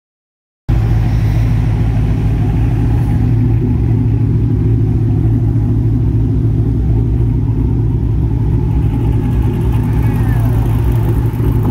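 A car engine idling with a deep, steady rumble that cuts in abruptly about a second in.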